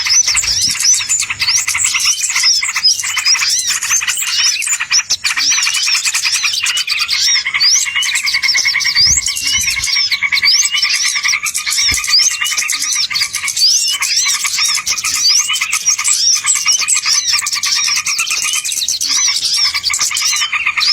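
Dense, continuous chorus of small songbirds chirping and trilling rapidly over one another: a bird-lure ('pikat') recording made to draw wild birds in.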